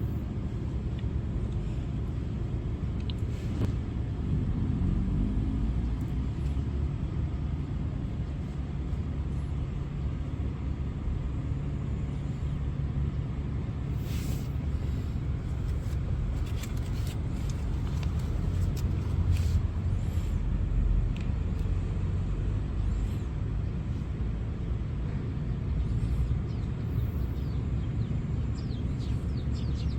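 Steady low outdoor rumble without clear events, with faint high chirps near the end.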